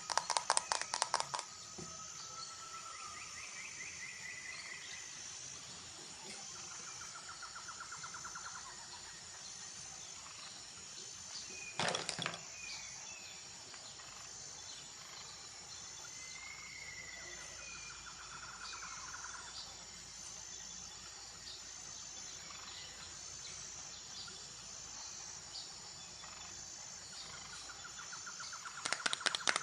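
Birdsong ambience: short rising bird calls and trills every few seconds over a steady outdoor hiss, with a faint high chirp repeating about once a second. A fast run of taps stops about a second in, and a single sharp knock comes near the middle.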